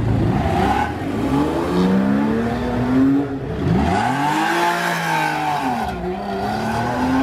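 Porsche 911 flat-six engine revving hard as the car pulls away. The engine note sweeps up in several rises, with one large rise and fall in the middle.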